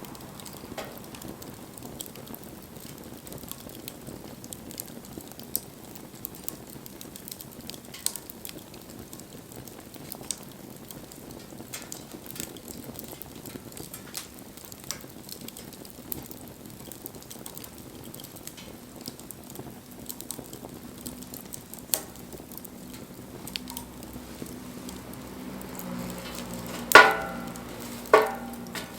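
Wood fire burning, with a steady hiss and scattered sharp crackles and pops. Near the end come two louder knocks that ring on briefly.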